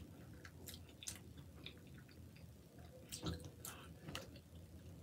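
Faint mouth-closed chewing of chili cheese fries: soft wet clicks and squishing, with a few louder smacks around three to four seconds in.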